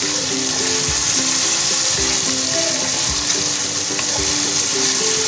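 Chopped onion, green chillies, garlic and ginger sizzling steadily in hot oil in a steel kadhai as they are stirred with a wooden spatula. Background music with a soft beat about once a second plays under it.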